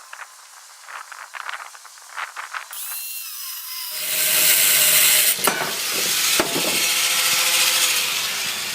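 Angle grinder cutting metal: a few short scrapes and clicks, then from about four seconds in the disc bites and cuts loudly and steadily, with a whine running over the hiss.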